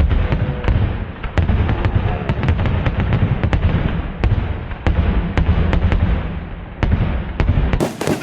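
Fireworks going off: a rapid, irregular string of sharp cracks over a continuous low rumble of booms.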